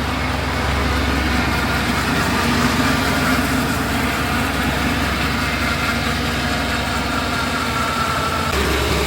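A 2005 pickup truck's engine idling steadily after a jump-start, running smoothly with no exhaust leak heard.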